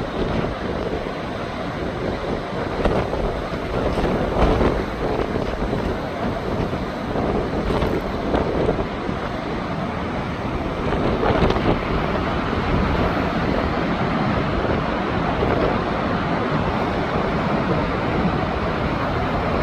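Storm-force wind gusting hard across the microphone, with ocean surf underneath. The wind surges and eases every second or two.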